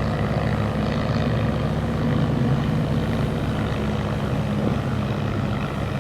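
Boat engines running steadily at an even pitch, a low drone.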